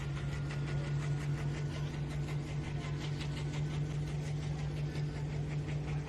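Pro stock pulling tractor's big single-turbo 680-cubic-inch diesel engine idling steadily, with a deep even hum and a regular pulsing of about four beats a second.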